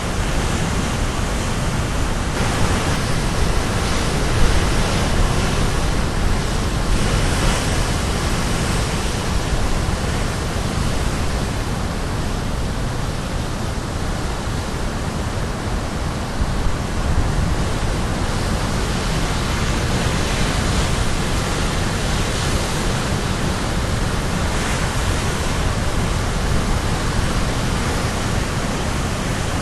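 Caribbean Sea surf breaking on the shore: a constant rushing wash with a deep low rumble, swelling briefly as individual waves break every few seconds.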